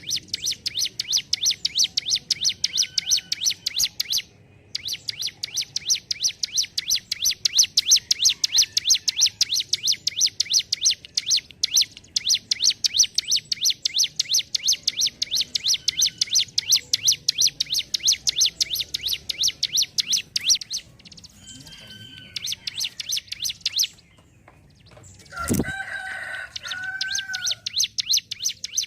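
Ciblek gunung (a prinia) singing its fast 'ngentrok' song: a long, even run of sharp, high ticking notes, several a second, broken once about four seconds in and stopping about three-quarters of the way through. Near the end a louder, lower call comes in briefly.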